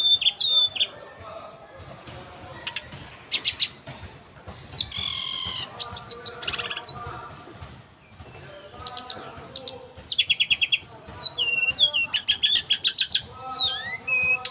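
A tledekan gunung songbird singing in varied phrases: quick runs of sharp repeated high notes and down-slurred whistles, with short pauses between phrases.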